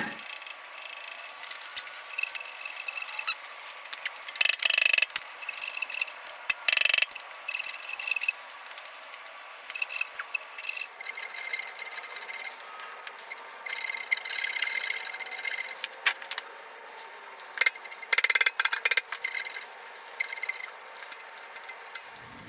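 Motorcycle slip-on exhaust muffler being twisted and forced on its pipe: intermittent metal-on-metal scraping and squealing, in bursts that come and go, loudest about five, seven, fourteen and eighteen seconds in.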